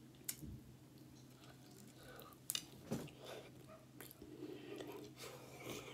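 Close-miked chewing and biting of a tortilla-crust pizza slice, with a handful of short, sharp mouth clicks spread through.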